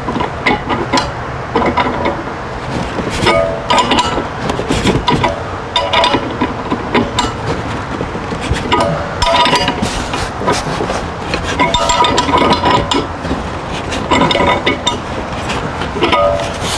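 Wrench tightening threaded water-line fittings into an Atwood RV water heater: repeated irregular metallic clinks and knocks, many followed by short ringing tones.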